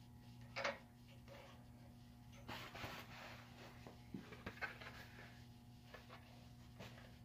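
A few faint knocks and clicks over a steady low hum, the sharpest about half a second in and a small cluster a little before halfway.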